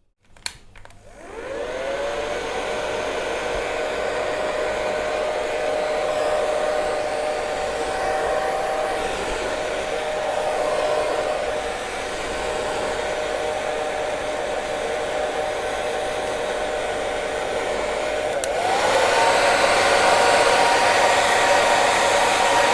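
Hair dryer clicked on, its motor spinning up with a rising whine and settling into a steady whine over the rush of air. About 18 seconds in it clicks again and runs louder with a higher-pitched whine.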